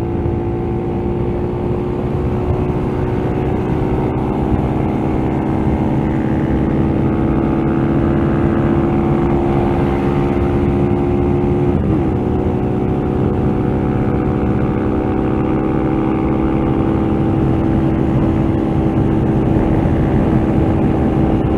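Motorcycle engine held at high revs in one gear at speed, a steady high-pitched drone. About halfway through, the tone breaks briefly, then holds steady again.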